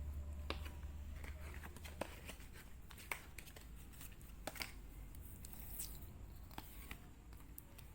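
Tarot cards being handled and laid out: scattered light taps and rustles of cards, with a faint low hum in the first couple of seconds.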